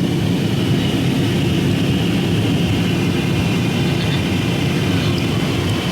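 Steady drone of a passenger jet's cabin during descent: engine and airflow noise, with a faint high whine.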